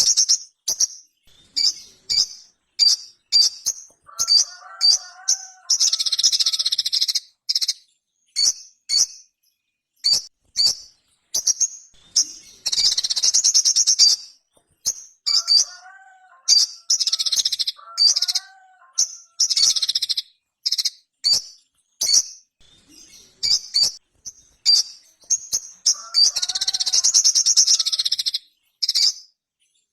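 A sogon (sogok ontong), a small sunbird, singing energetically. It gives rapid strings of short, high-pitched chirps, broken every few seconds by longer trills of about a second and a half each. Lower warbled notes come in now and then.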